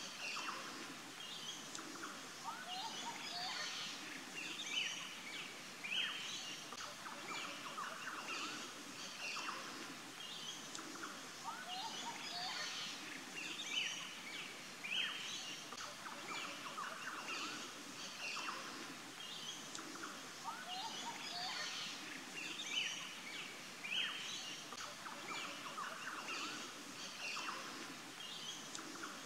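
Birds chirping and calling without pause, many short chirps and quick sweeping calls overlapping.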